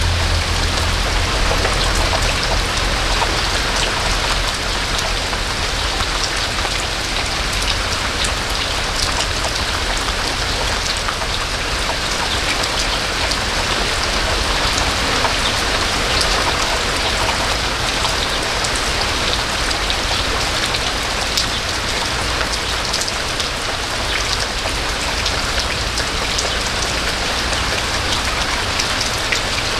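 Steady rain falling: an even hiss with many individual drops ticking through it.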